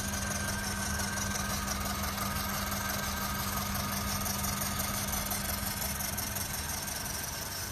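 Robot vacuum cleaner running, its motors and the fast-spinning brushes of an add-on auxiliary cleaning mechanism giving a steady hum with a faint high whine.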